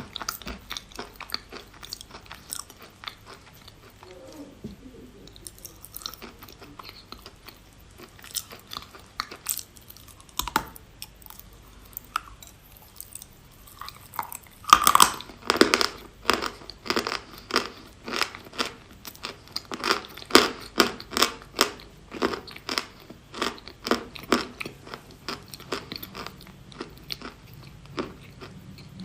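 A person biting and chewing eating chalk close to the microphone, crunching. The crunches are sparse and faint at first; about halfway through they become steady and loud, a few a second.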